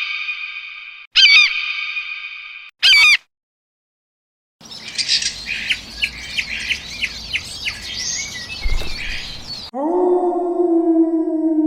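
A string of separate animal sounds cut together. It opens with two long wavering calls and a short one, then a gap of about a second and a half. Next come about five seconds of birds chirping rapidly, and near the end a cat begins a long, slowly falling meow.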